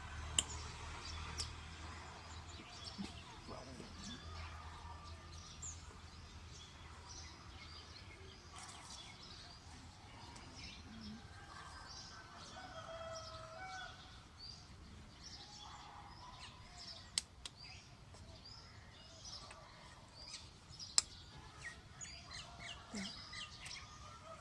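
Many small birds chirping and calling, with a few sharp clicks here and there, the loudest about two-thirds of the way through.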